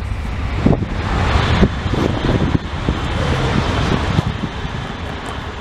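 A Trenitalia high-speed train passing at speed: a rushing noise that swells from about half a second in and eases off near the end, with wind buffeting the microphone.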